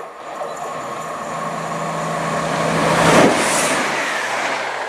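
CrossCountry Class 170 Turbostar diesel multiple unit passing through the station: diesel engine hum and wheel-on-rail rumble building to a peak about three seconds in, then easing off.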